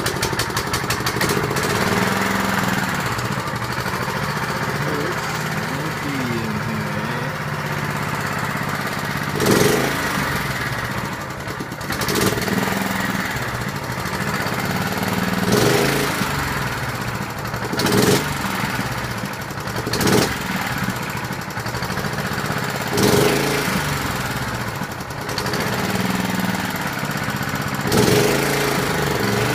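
Honda walk-behind lawn mower's single-cylinder engine running cold, just after starting, and not settling to a steady idle. From about a third of the way in it swells in speed every two to three seconds. It only needed warming up before it would drop to idle.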